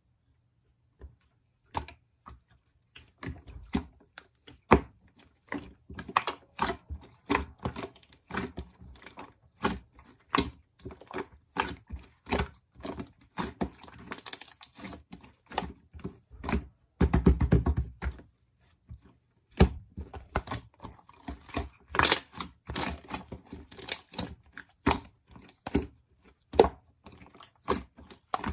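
Close handling noises: a rapid, irregular run of small clicks and taps mixed with crinkling, with a denser, heavier burst of rustling about two-thirds of the way through.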